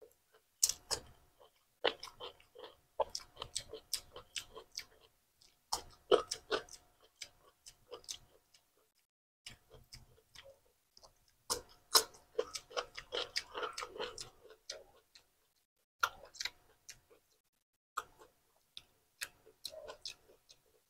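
Close-up eating sounds: crisp crunching and chewing of raw cucumber sticks, in bursts of clicky bites with short pauses between them.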